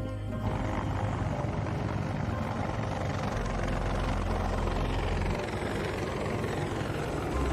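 Rotorcraft in flight: a steady, rapid rotor chop over engine and air noise, which comes up about half a second in.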